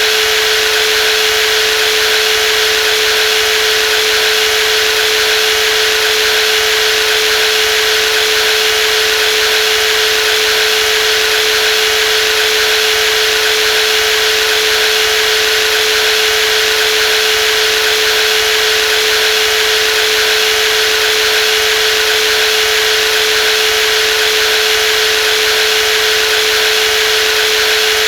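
Brushless jigsaw running steadily at constant speed: a loud, unchanging motor hum with a hissing rush above it.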